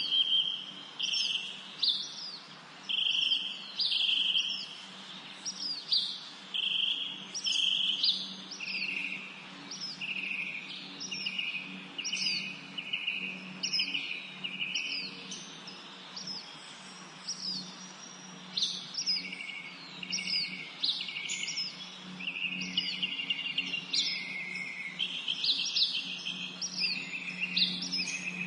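Songbirds singing a quick run of short phrases, each a sharp downward-swept note followed by a buzzy trill, repeating about once a second. A low steady hum runs underneath.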